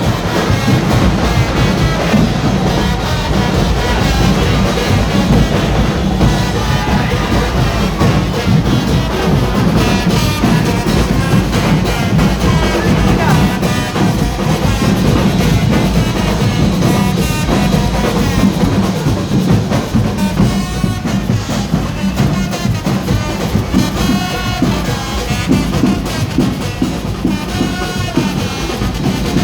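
Carnival band music with drums and brass playing without a break.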